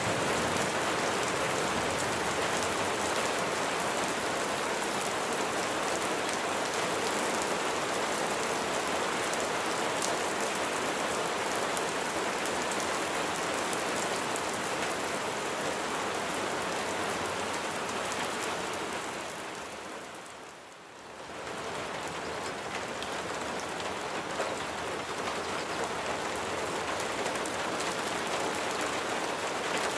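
Steady rain falling, a dense even patter of raindrops. About two-thirds of the way through it briefly fades down and swells back up.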